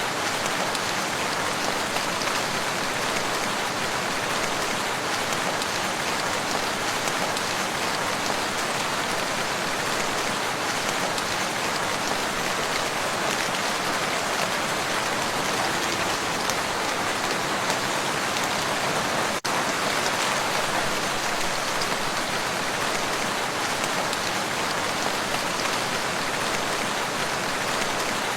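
Steady, dense rain falling on a lake's surface, an even hiss of countless drops. It dips out for an instant about two-thirds of the way through.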